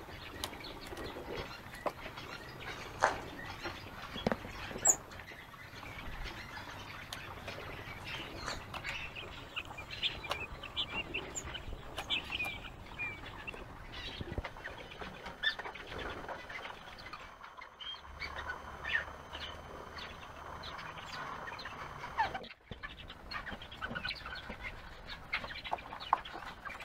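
Aviary ambience: birds chirping, many short separate calls throughout, with occasional light clicks and rustles.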